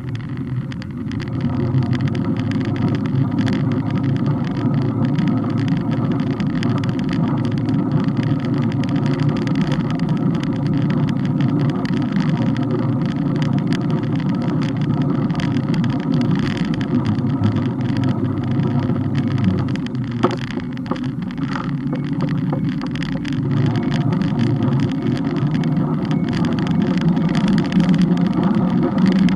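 Bike on the move, recorded from the rear: a steady low rumble of riding with a constant hum over it, dipping briefly about two-thirds of the way through.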